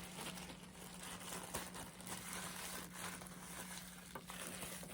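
Crisp, dry grabba tobacco leaf being crushed by hand inside a plastic bag: a continuous soft crunching and plastic crinkling. A faint steady hum runs underneath.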